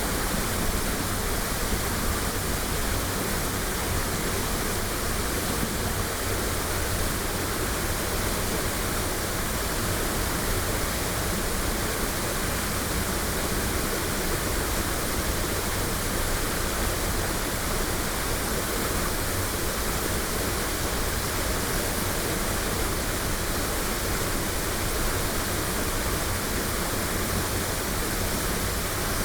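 Waterfall: a steady, even rush of falling water, unchanging throughout, recorded binaurally.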